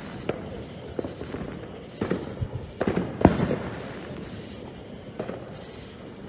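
Distant fireworks going off: scattered single bangs and pops, with a quick cluster of bangs about three seconds in, the loudest of them.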